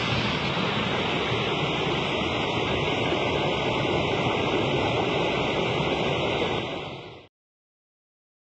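Steady rushing of river water that cuts off suddenly about seven seconds in, followed by silence.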